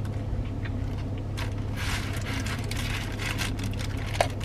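Close-up chewing of a breaded chicken sandwich, a run of short crunching, wet mouth sounds, over a steady low hum.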